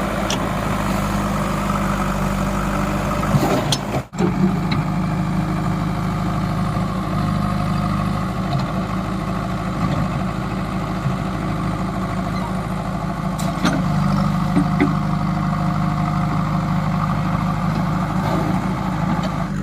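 Heavy diesel machinery engine running steadily at a low, even speed, with the sound dropping out for an instant about four seconds in.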